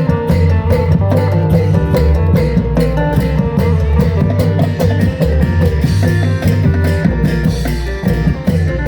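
Isan phin (plucked lute) music over a heavy bass line and a steady, quick drum beat.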